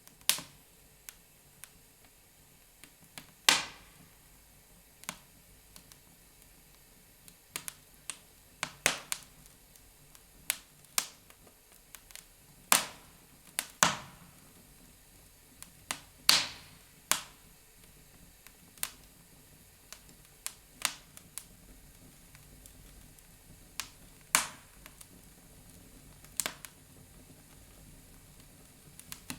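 Wood fire in a fireplace crackling: irregular sharp pops and snaps, some much louder than others, over a faint steady hiss.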